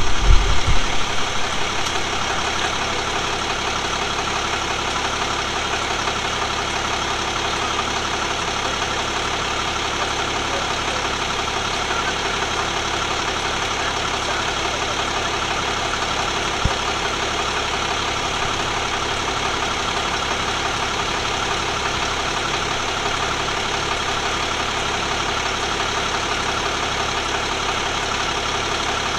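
Vehicle engine idling steadily, with a louder pulsing in the first two seconds before it settles to an even run. A single sharp click comes about seventeen seconds in.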